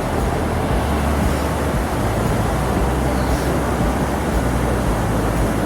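Steady vehicle road noise with a heavy, unsteady low rumble, typical of engine and wind noise during a motorcycle ride.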